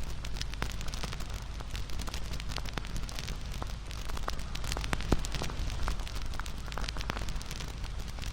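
Campfire burning with irregular wood crackles and pops over a steady low rumble of flame, one louder pop about five seconds in.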